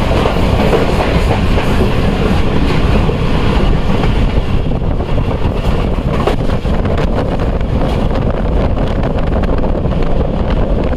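Passenger train running along the track, heard from an open carriage doorway: a steady rumble of wheels on rails, with occasional clicks.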